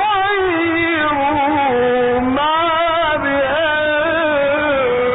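Male Quran reciter chanting in melodic tajweed style, drawing out a phrase in long held notes with ornamented turns of pitch. The recording is dull and lacks highs, like an old radio broadcast.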